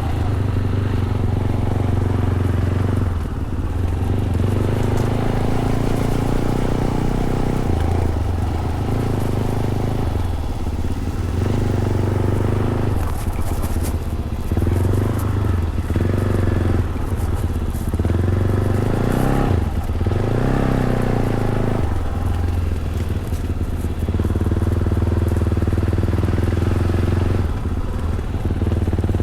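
Fantic Caballero 500's single-cylinder four-stroke engine through its stock Arrow exhaust, ridden off-road. The pitch rises and falls with the throttle, with short drops every few seconds as the rider rolls off or shifts gear.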